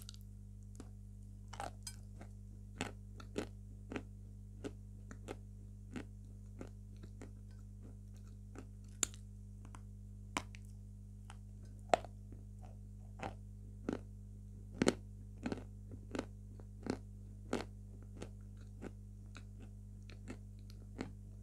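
Close-up crunching of a person biting into a block of chalk and chewing it: short, sharp crunches at uneven intervals, roughly one a second, over a steady low hum.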